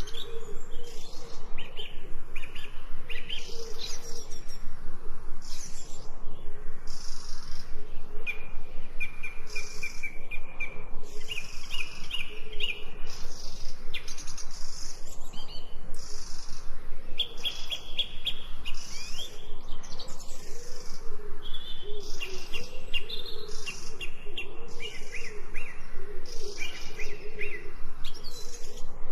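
Several birds singing, with repeated trills and chirps, over a steady hiss of falling rain.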